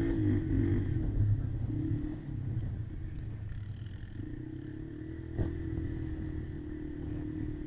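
Kymco Maxxer 300 quad's engine running under throttle, loud for the first two seconds and then settling to a lower, steadier note; a single sharp knock about five and a half seconds in.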